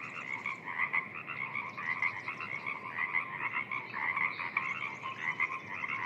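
A chorus of frogs calling, many short croaking calls overlapping without a break.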